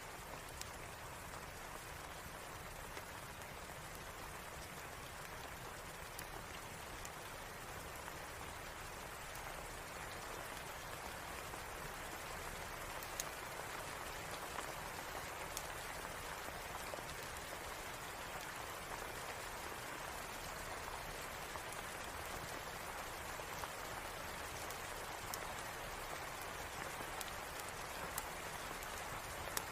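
Steady rain falling, with a few scattered sharp clicks over it.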